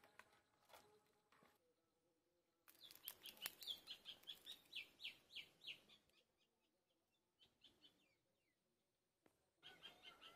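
Bird chirping in quick, high repeated notes, in two bouts: one of about three seconds starting near three seconds in, and another starting near the end. A few faint clicks fall in the quiet between.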